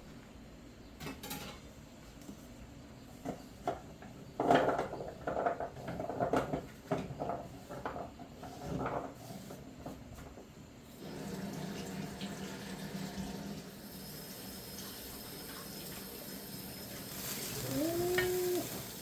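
Kitchen sink sounds: a few knocks, then irregular splashing and a steady run of tap water. A short hummed tone comes near the end.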